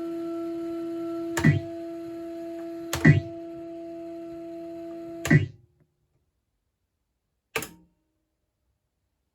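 Yamasa Neo Magic Pulsar XX pachislot machine: a steady electronic tone plays while the reels spin, and three reel-stop clunks come about a second and a half apart. The tone cuts off with the third stop, and one more click follows a couple of seconds later.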